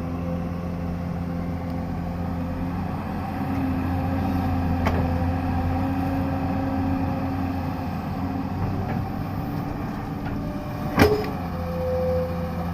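Excavator's diesel engine running steadily, with a single sharp knock near the end.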